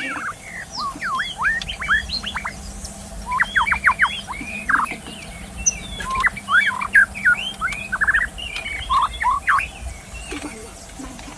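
Wild white-rumped shama (murai batu) singing: a rapid, varied string of sharp whistled notes sweeping up and down, delivered in quick clusters with short pauses.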